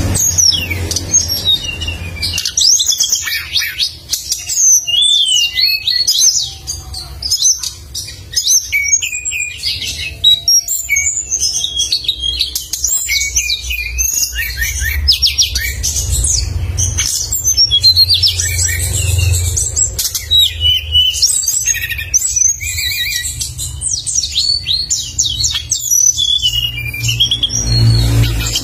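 A songbird singing continuously and vigorously, a dense run of sharp chirps, whistles and quick trills with almost no pauses, over a low rumble.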